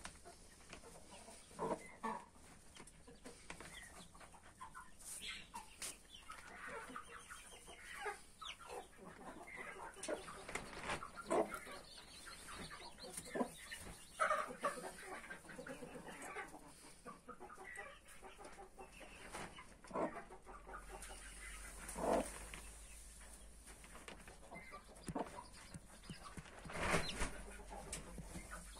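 Mother hen clucking among her brood of newly hatched chicks, with many short, irregular calls scattered throughout.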